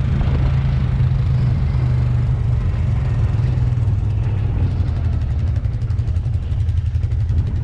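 Four-wheeler engine running steadily, easing off a little in the second half.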